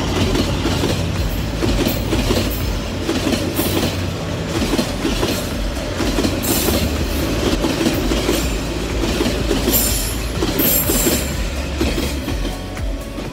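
Freight train wagons rolling past with a steady clatter of wheels on track, and brief high wheel squeals about six and a half and ten seconds in.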